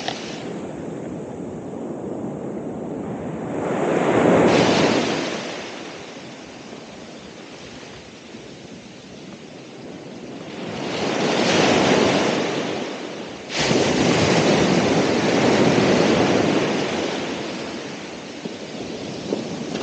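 Ocean surf breaking and washing on the shore in slow swells, peaking twice and then jumping suddenly louder about two-thirds of the way through.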